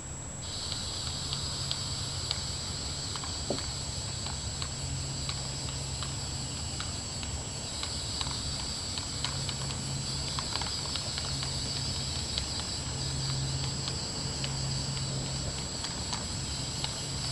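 Aerosol can of Rust-Oleum automobile primer spraying in a steady hiss, starting about half a second in, with scattered faint ticks.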